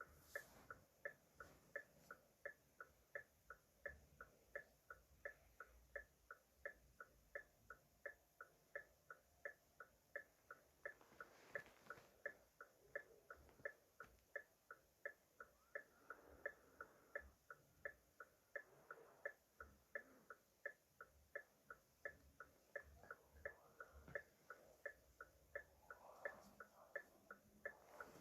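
Car hazard-light flasher clicking steadily in its regular tick-tock rhythm, about two to three faint clicks a second.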